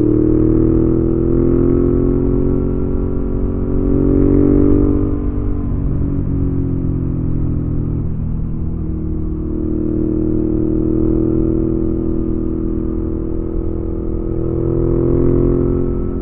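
Suzuki V-Strom 650's V-twin engine through a Delkevic aftermarket exhaust while riding, its note rising and falling with the throttle: it pulls harder about four seconds in, eases off, holds steady at cruise, then pulls again near the end.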